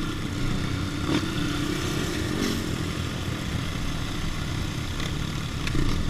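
Dirt bike engine running under way on a trail, with a couple of brief knocks in the first few seconds.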